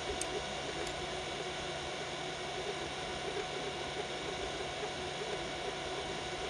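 Biqu BX 3D printer running a print at 120 mm/s: a steady whir of cooling fans under a wavering hum from the stepper motors as the print head moves, with a couple of faint ticks near the start.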